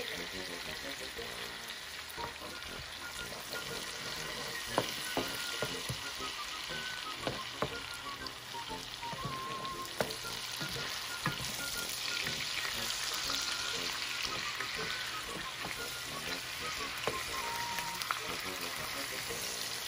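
Salmon steaks and chopped garlic frying in butter and honey in a nonstick pan: a steady sizzle, with a few sharp clicks scattered through it.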